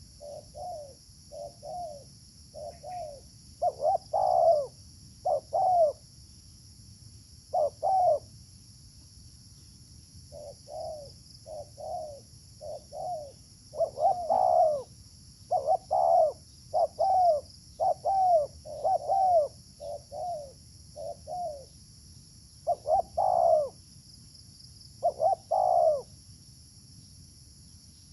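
Spotted doves cooing: short coo notes in repeated phrases every second or two, with a faint steady high hiss behind.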